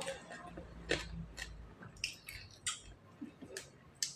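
Utensils clinking and tapping against dishes, about eight separate light clinks.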